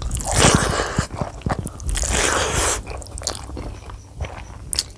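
A person chewing and biting a large mouthful of rice and curry eaten by hand, close to the microphone, with wet mouth noises and sharp clicks. The noisiest chewing comes twice, about half a second in and again around two seconds in.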